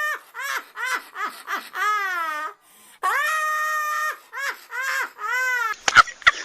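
High-pitched wailing cry: one long held note followed by a run of short rising-and-falling yelps, the whole pattern heard twice. A few sharp clicks come near the end.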